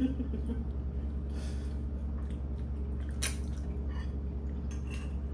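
Soft, wet chewing and mouth sounds of someone eating, with one sharp click about three seconds in, over a steady low hum.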